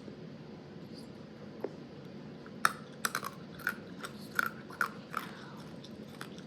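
A person chewing black cherry sour candy: a quick run of sharp crunching clicks, starting a little before the middle and lasting a couple of seconds.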